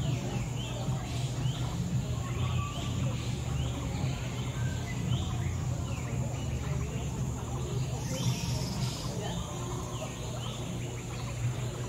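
Birds chirping over and over, short chirps a few times a second, over a steady low hum of background noise.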